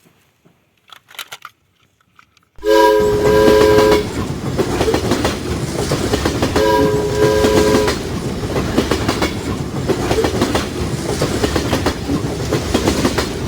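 A train running along the rails with a rhythmic clickety-clack, its horn sounding two double toots. A few faint clicks come before the train starts up, about two and a half seconds in.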